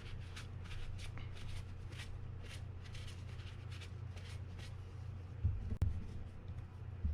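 Light clicks and rustling as small fishing-reel parts are handled and fitted, over a steady low hum. A soft bump and a sharper click come about five and a half seconds in.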